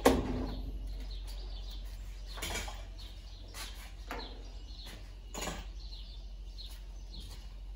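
A sharp knock at the start, then scattered light clicks and knocks over a low steady hum.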